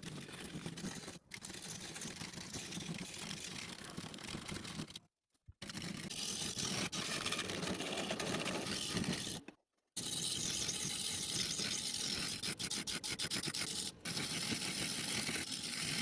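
Woodturning on a lathe: a tool scraping against spinning wood, in short clips that cut off abruptly several times.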